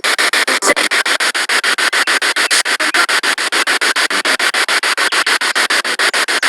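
Spirit box radio sweeping through stations: loud static chopped into short bursts about ten times a second as the scan steps from channel to channel.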